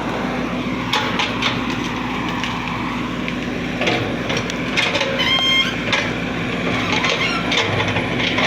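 Excavator engine running steadily, with scattered knocks and clanks and a brief high-pitched squeal about five seconds in.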